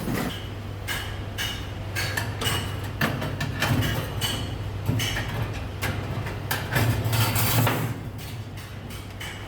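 Iron wire being worked by hand: irregular sharp metal clicks and taps, roughly one or two a second, with a louder scraping stretch near the end, over a steady low hum.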